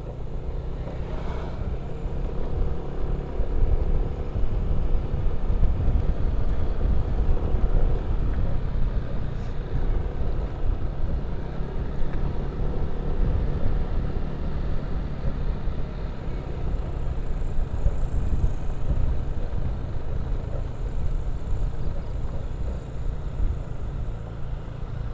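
Motorcycle under way on the road: steady wind buffeting the microphone over the bike's engine and road noise.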